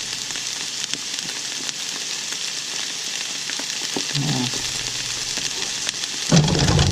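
Onions and bell peppers sizzling steadily as they sauté in olive oil in a pan. A louder bump comes near the end.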